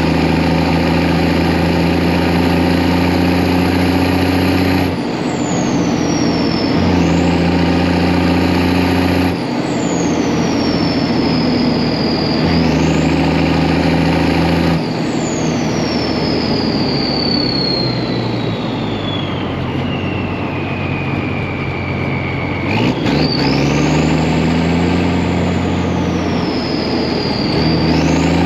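Deuce and a half truck's engine with a Schwitzer Whistler turbocharger being revved and let back down several times, the turbo's high whistle rising as the revs come up and falling as they drop. In the middle the revs fall away and the whistle winds down slowly for several seconds before the engine is revved up again.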